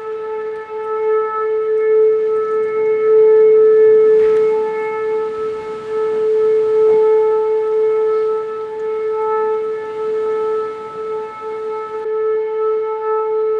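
Outdoor tornado warning siren sounding a steady wail at one pitch, swelling and fading in loudness.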